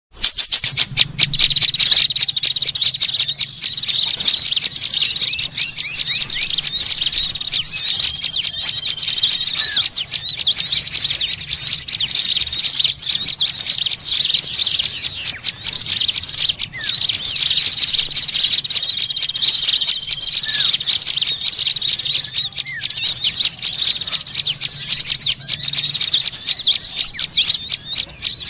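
Dense, unbroken chorus of many small songbirds chirping and chattering at once, high-pitched and noisy, as played in a bird-lure (pikat) recording.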